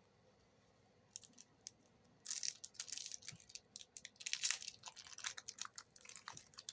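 Foil trading-card booster pack being crinkled and torn open: a few faint clicks, then from about two seconds in a dense run of sharp crackles.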